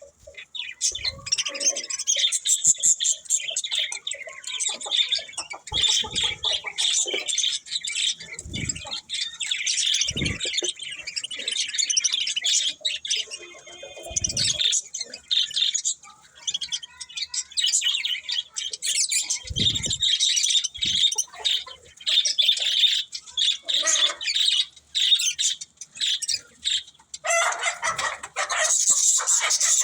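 Budgerigars chirping continuously in a dense stream of short, high chirps, with a few low thumps scattered through. Near the end the sound turns denser and harsher.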